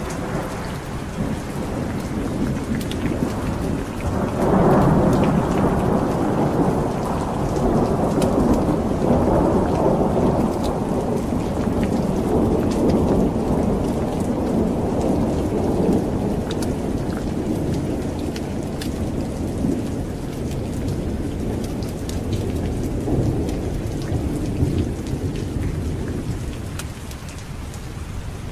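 Steady heavy rain with a long rolling rumble of thunder that swells about four seconds in and slowly dies away over the next fifteen seconds or so.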